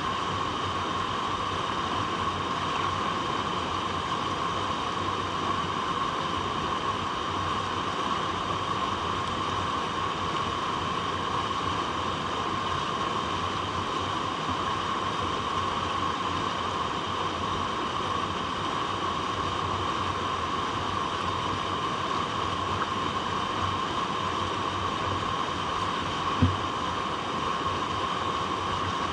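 Flowing water, a steady, unbroken rush, with one brief low thump near the end.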